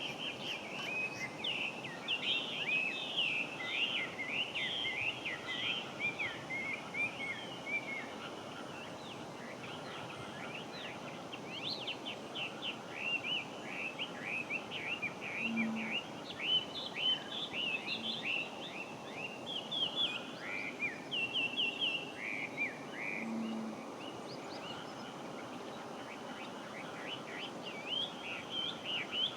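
Chinese hwamei (melodious laughingthrush) singing in long runs of quick, varied whistled notes, with a short break near the end before it starts again. A steady outdoor background hiss lies under the song.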